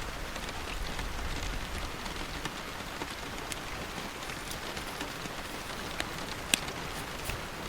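Steady rain falling, with scattered individual drops ticking and one sharper click near the end.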